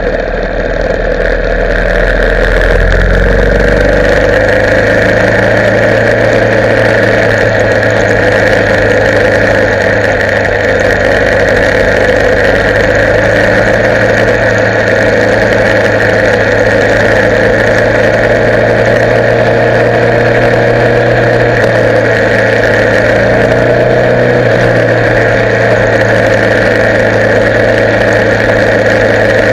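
Motorcycle engine running, its pitch rising over the first few seconds as the bike picks up speed, then holding steady.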